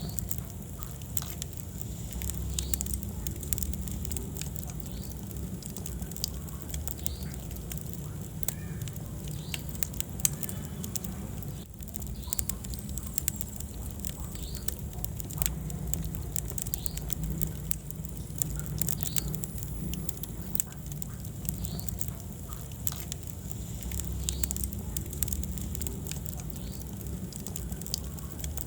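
Wood fire burning in a fireplace: continuous crackling with frequent sharp pops, over a low steady rumble.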